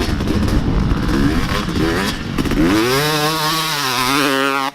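Wind buffeting the microphone, then, about two and a half seconds in, a motocross dirt bike's engine revs sharply upward and is held at high revs. It cuts off suddenly at the end.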